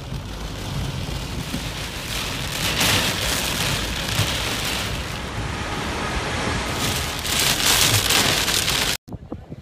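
Heavy rain falling on a moving car's windshield and body, heard from inside the car as a dense, steady hiss. It swells louder about three seconds in and again near the end, then cuts off abruptly.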